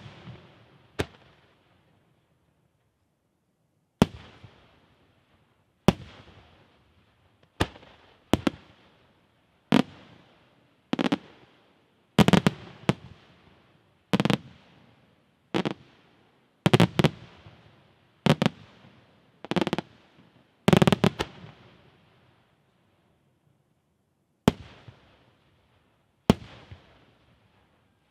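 Aerial firework shells bursting one after another, a sharp bang every second or two, each followed by a rolling echo. Some bursts come in quick pairs, with short pauses near the start and about three quarters of the way in.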